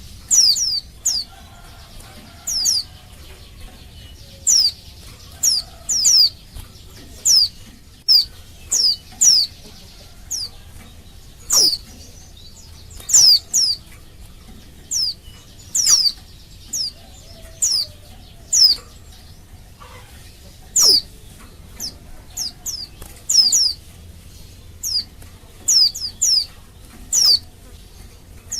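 Female white-eye (pleci) calling: short, high notes that sweep downward, given singly or in quick pairs with short gaps, about one or two a second. These are the calls of a female in breeding condition calling to males.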